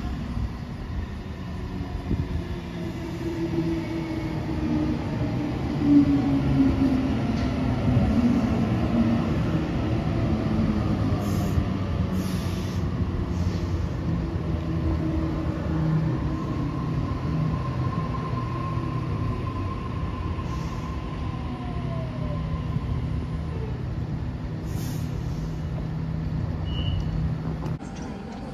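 Train running on the rails: a steady wheel-on-rail rumble with whining tones that glide down in pitch.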